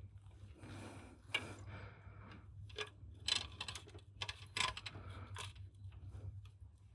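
Irregular light clicks, taps and rustles of tools and small parts being handled during hands-on car repair, the sharpest about three and four and a half seconds in, over a steady low hum.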